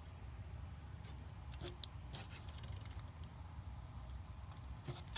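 Faint light clicks and rubbing from small die-cast model cars being handled, over a steady low room hum.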